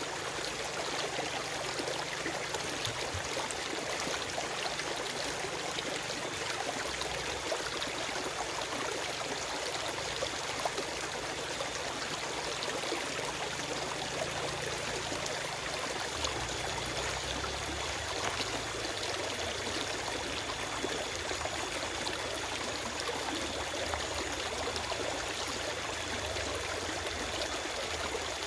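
Forest stream running over rocks: a steady wash of flowing water with fine trickling, and no birds.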